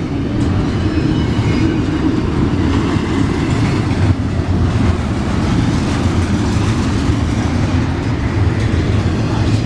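Long freight train rolling past: a loud, steady rumble of railcar wheels on the rails.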